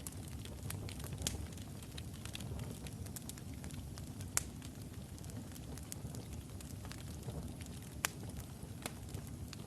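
Wood fire burning logs in a fireplace: a steady low rumble of flame with scattered sharp crackles and pops, a few louder snaps about a second in, midway and near the end.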